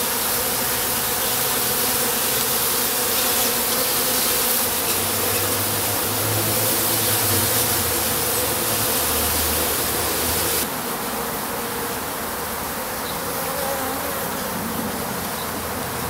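A honeybee colony buzzing steadily inside a top-bar hive, heard up close among the combs, with a humming drone and a hiss above it. The hum drops a little in level about ten seconds in.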